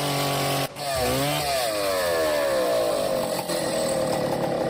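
Chainsaw cutting a fallen tree. Its pitch rises sharply about a second in, then sinks slowly as the saw works through the wood.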